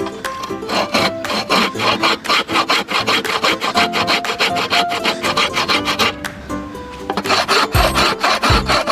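A hand tool rasping back and forth on bamboo or wood in quick, even strokes, about five a second. The strokes pause briefly about two-thirds of the way through, then start again, with background music underneath.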